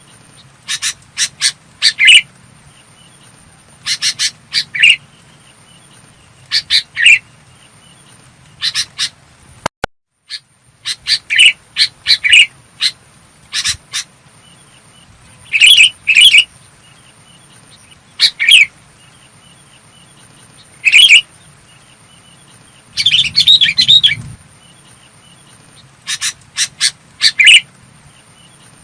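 Sooty-headed bulbul singing short, clear phrases, repeated every second or two with brief pauses between.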